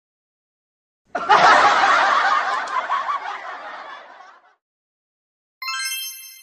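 A burst of crowd laughter, like a laugh-track sound effect, starting about a second in and fading away over about three seconds. Near the end a bright chime rings out and begins to decay.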